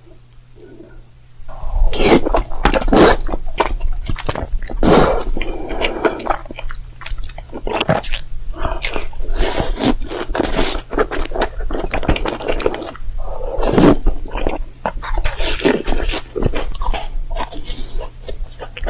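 Mouth-sounds eating: bites and chewing with many sharp crunches, loud and close, starting about a second and a half in.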